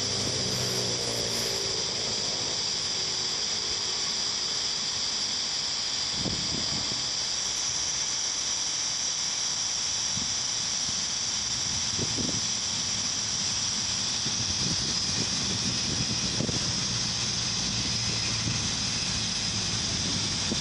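Dassault Falcon business jet's turbofan engines running at takeoff power, a steady high-pitched whine over a low rumble.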